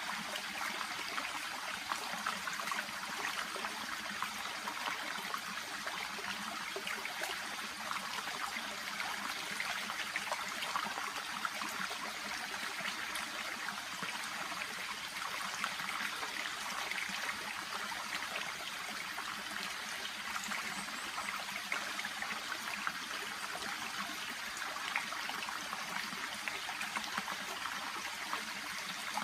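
Shallow stream babbling and trickling steadily over stones and among water plants, a continuous bright rush of small splashes.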